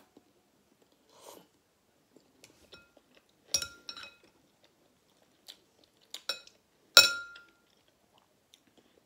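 Eating at a bowl of noodle soup: soft chewing, and a utensil clinking sharply against the bowl a few times, each clink ringing briefly, the last one the loudest and longest-ringing.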